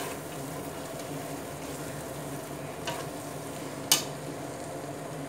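Thick onion-tomato masala sizzling in a stainless steel pressure cooker as it is stirred and mixed with a nylon slotted turner. A sharp tap about four seconds in, with a smaller one just before it.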